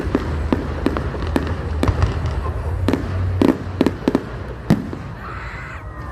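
Fireworks display: an irregular string of sharp bangs and cracks over a low, steady rumble, easing off briefly near the end.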